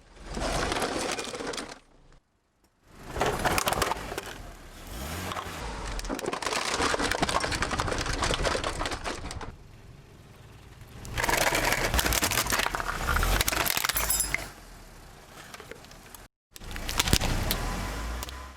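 Things being crushed under a car's tyre: crackling and crunching with many sharp cracks, in several separate stretches of a few seconds each, each cut off abruptly.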